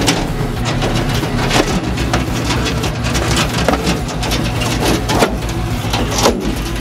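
An engine running steadily with a low hum, with many short knocks and clatters over it.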